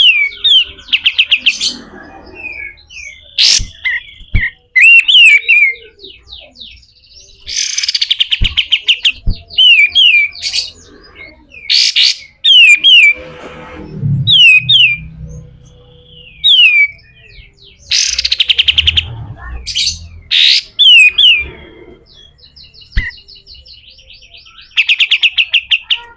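Kapas tembak songbird singing: loud repeated falling whistled notes alternating with rapid, harsh rattling trills, the coarse 'besetan' chatter, in bursts with short pauses between.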